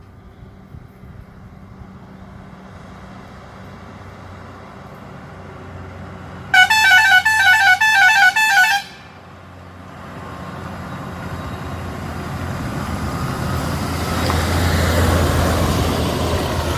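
A truck's musical air horn blares for about two seconds in a fast, warbling run of notes. Then the low engine sound of a heavy vehicle rises steadily as it draws near.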